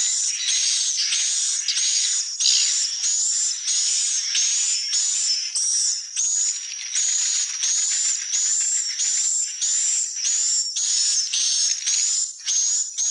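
Swiftlets calling: a fast, even run of short, high, buzzy chirps, about two to three a second, each with a thin whistled note at its top.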